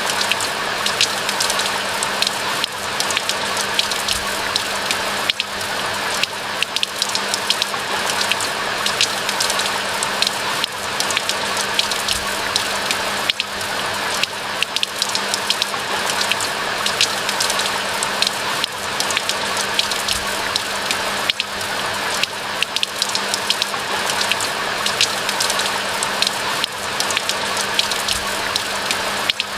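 Steady rain falling in a pine forest: a dense, even hiss of rainfall with many sharp individual drops and drips pattering throughout. A faint steady low hum runs underneath.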